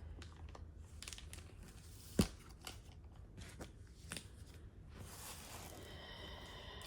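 Comic books and their blind bags being handled: soft paper rustling and small clicks, with one sharp knock about two seconds in and a longer rustle near the end.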